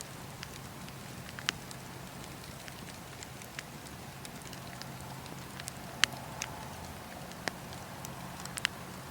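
Wood fire burning in a fireplace, with irregular sharp crackles and pops over a steady low rumble; the loudest pop comes about six seconds in.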